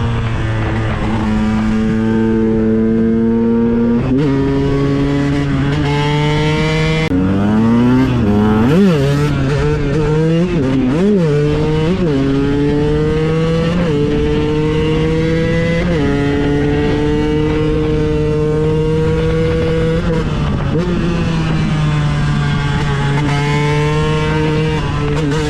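KTM 125 EXC supermoto's single-cylinder two-stroke engine pulling through the gears: the pitch climbs steadily and steps down slightly at each shift, every few seconds. Partway through come several quick throttle blips, the revs swinging sharply up and down.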